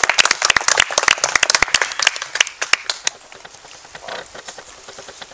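Audience clapping: dense clapping that thins out and fades about three seconds in, leaving a few scattered claps.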